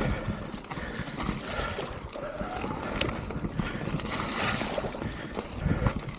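Mountain bike rolling over rough trail, with irregular knocks and rattles from the bike over bumps.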